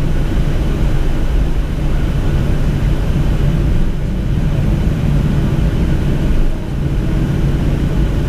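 Steady low drone of a Boeing 737 cabin on the ground after landing, with a constant low hum running through it and a brief dip near the end.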